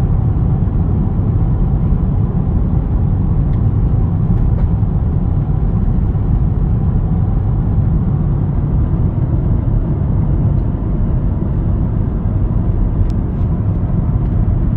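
Interior drone of a 2011 Audi 3.0 TDI V6 diesel wagon climbing under heavy load while towing a two-ton truck engine, mixed with road noise, heard from inside the cabin. Steady and low throughout.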